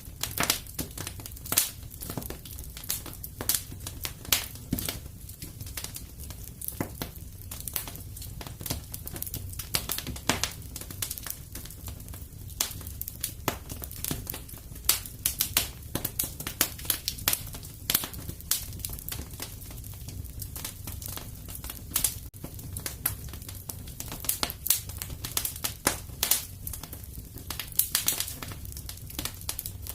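Wood fire in a fireplace crackling, with irregular sharp pops and snaps, several a second, over a low steady rumble.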